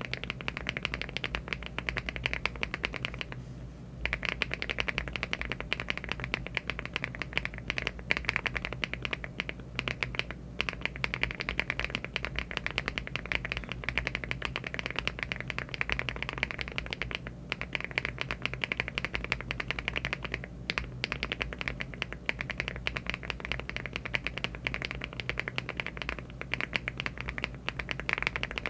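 Fast, continuous typing on a mechanical keyboard fitted with HMX EVA linear switches (48.5 g) and Cherry-profile keycaps, in a LEOBOG Hi75 aluminium case. The uploader rates these switches as low-pitched. The keystrokes pause briefly about three and a half seconds in.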